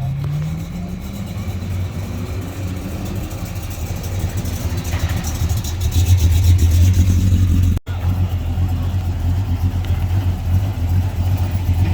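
Car engine running with a steady low rumble, its pitch rising for about a second near the start as it is revved or pulls away.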